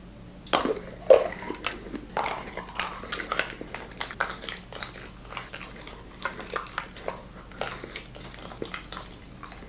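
Close-miked eating sounds of Kinder chocolate being bitten and chewed: a run of small, crisp crunches and clicks.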